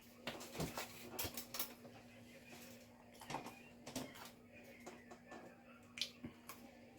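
Mouth noises of someone gumming and eating chicken nuggets with no teeth: irregular short wet clicks and smacks, a sharper one about six seconds in.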